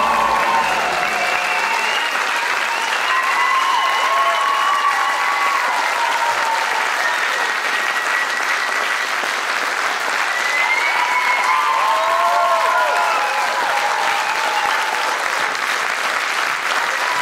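Large audience applauding steadily, with scattered cheers rising over the clapping now and then.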